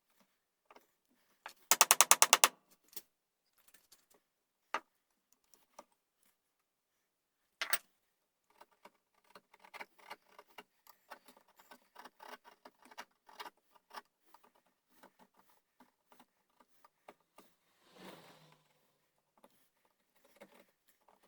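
Workshop handling sounds: a quick run of about ten sharp clicks about two seconds in, a couple of single clicks, then scattered light taps and ticks and a brief scrape near the end.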